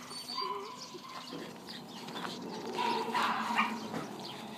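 Dogs barking now and then, in two short spells.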